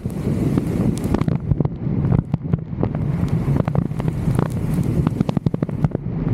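Wind buffeting the microphone of a roof-mounted camera on a vehicle, over a steady low rumble, with many irregular sharp taps.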